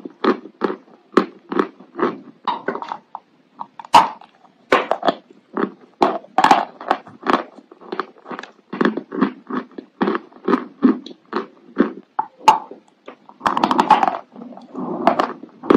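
A mouthful of chalk being chewed, crunching in a steady rhythm of about two to three chews a second. A sharp snap about four seconds in and a longer burst of crunching near the end.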